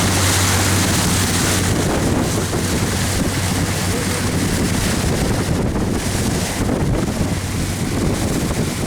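Steady wind buffeting the microphone over the rush of water on a boat under way.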